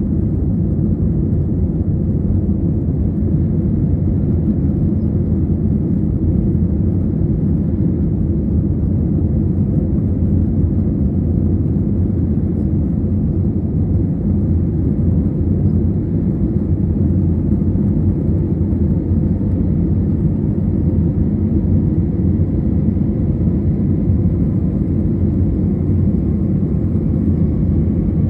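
Airliner's engines running at takeoff power, a steady heavy low rumble, with a faint tone slowly rising in pitch in the second half.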